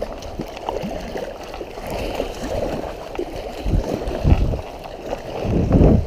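Fast, high river water rushing and gurgling in rapids around a kayak, with a few heavier low rumbles, the strongest near the end.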